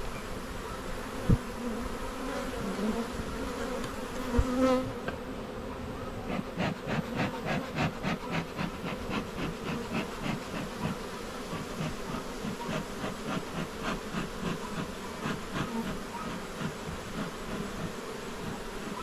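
Honeybees buzzing around an opened hive, a steady hum, with two sharp knocks in the first five seconds. From about five seconds in, a rhythmic run of short puffs, roughly three a second, runs over the buzzing.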